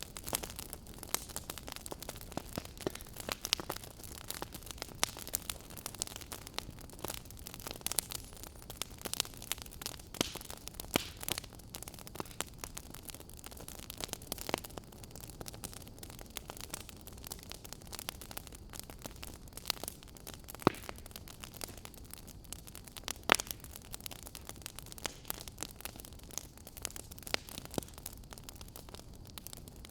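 Wood fire crackling in a fireplace: a steady low hiss with irregular snaps and pops, a few of them louder.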